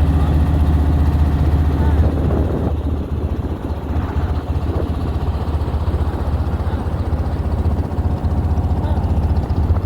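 Motor engine running with a steady low hum that turns into a rougher rumble about three seconds in.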